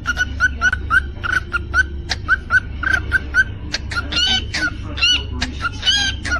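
Cockatiel chirping in a quick repeated pattern, about three short chirps a second with clicks between them. A few longer arching whistled calls come in the second half.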